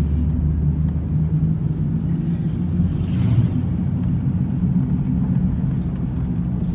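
A Ford Thunderbird's 4.6-litre V8 running while the car is driven, heard from inside the cabin as a steady low drone with road noise. A brief rush of noise rises about three seconds in.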